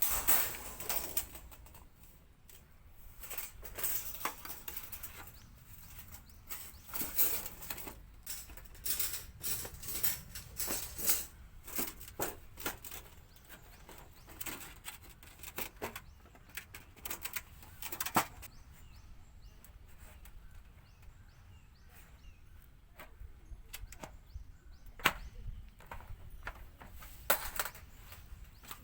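Irregular rustling with light clicks and taps, the sound of gear being handled, with faint bird chirps in the background.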